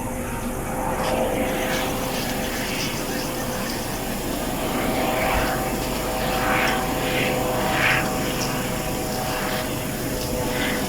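Aircraft engine noise: a steady drone with a few tones held underneath.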